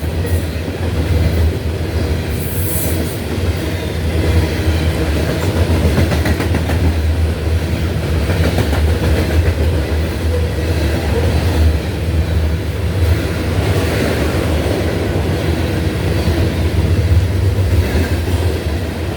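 Loaded coal train's cars rolling past: a steady heavy rumble with the clickety-clack of wheels over rail joints.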